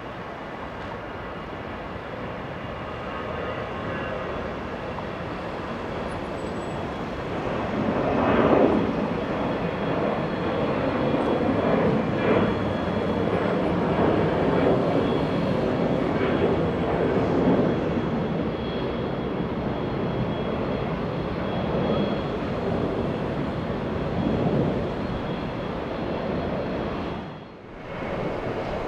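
Jet airliner engines passing close by: a steady rushing noise with a faint high whine, swelling a few seconds in and staying loud before easing off, with a brief drop near the end.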